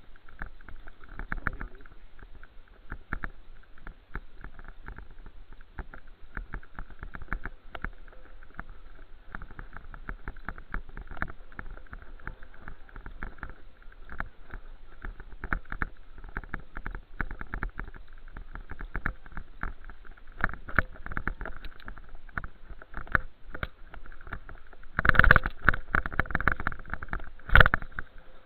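Riding a bicycle: a steady rumble of wind on the microphone, with many irregular small knocks and rattles from bumps in the ride. Two louder jolts come near the end.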